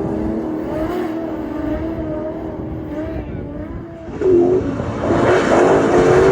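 LS2 V8 engine of a drifting Mazda RX8, revs rising and falling as the throttle is worked through the slide. About four seconds in it gets suddenly louder as the car comes near, with a hiss of tyre noise under the engine.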